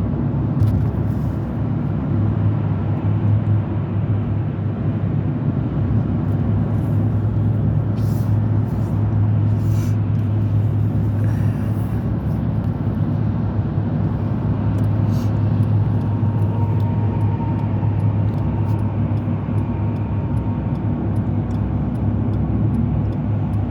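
Steady drone of a vehicle driving at cruising speed on the motorway: engine hum and tyre and road noise, unchanging throughout.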